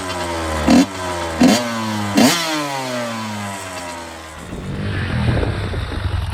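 Honda CR250 two-stroke dirt bike engine blipped four times, about three-quarters of a second apart, the revs falling away after each blip. After a few seconds it drops to a quieter, rougher sound.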